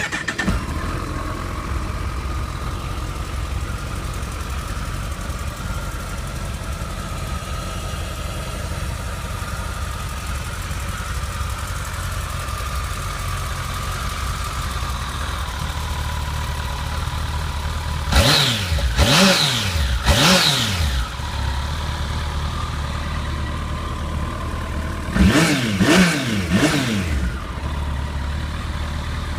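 A 2012 Kawasaki ZX1400's 1441cc inline-four engine idling steadily through its standard exhaust, blipped twice about two-thirds of the way in and twice more near the end, each rev rising and falling quickly back to idle.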